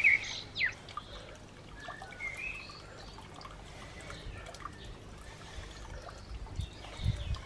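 Outdoor background with birds chirping on and off, loudest in the first second, and a few low thumps near the end.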